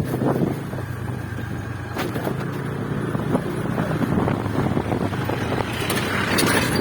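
Motorcycle engine running at a steady speed while riding, with a steady low drone under road and wind noise.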